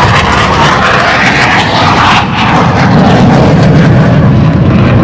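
F-16 fighter jet flying past, its engine noise very loud. The sound is highest for about the first two seconds, then drops lower as the jet goes by.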